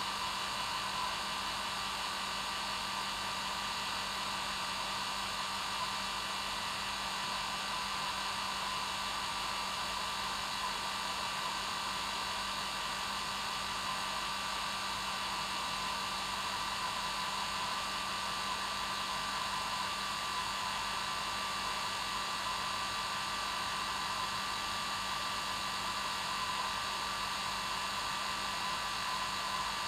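Hair dryer running steadily: an unbroken rushing whir with a steady low hum under it and a thin higher whine.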